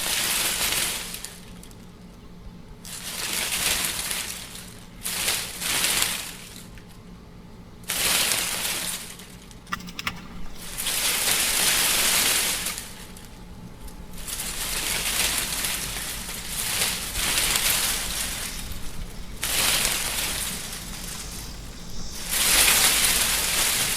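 Wind blowing in gusts: a rushing noise that swells and fades every few seconds, each gust lasting one to three seconds, with quieter lulls between.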